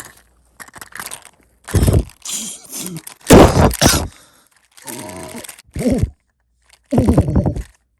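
Stiff plastic toy packaging being forced and cracked open by hand, with a thump, then loud cracking and crunching, then strained grunts and groans.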